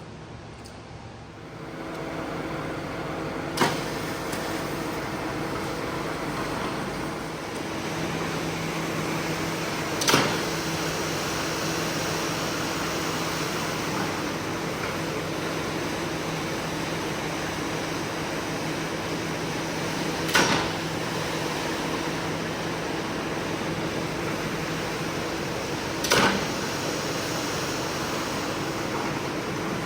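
A motor-driven machine starts up about two seconds in and runs steadily with a low hum. Four sharp knocks break through it, several seconds apart.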